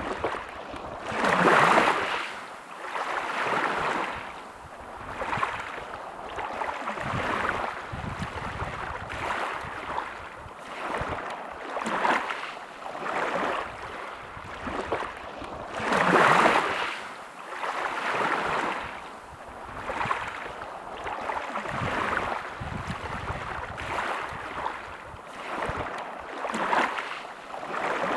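Small sea waves lapping and washing ashore, a swell of water noise every second or two, with two bigger waves about two seconds in and about sixteen seconds in.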